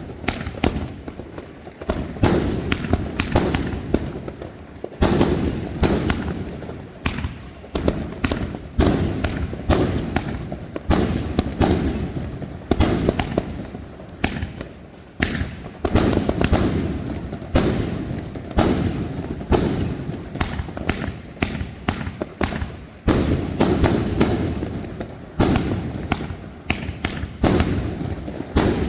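Fireworks going off in a dense, continuous barrage: many sharp bangs, several a second, each trailing off into a rumbling echo before the next.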